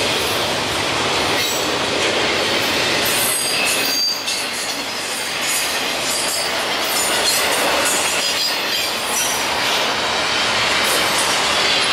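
Norfolk Southern freight train rolling past, a steady, loud rush of wheels on rail with brief high squeals from the wheels.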